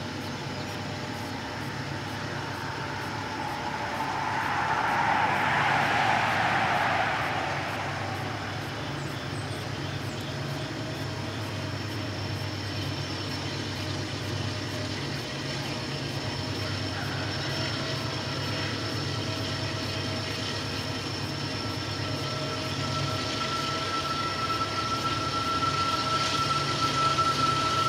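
Diesel locomotives hauling a heavy coal train slowly upgrade, a steady low engine drone that grows louder as they approach. A swell of rushing noise peaks about five to seven seconds in, and from about halfway through a thin steady whine joins and grows.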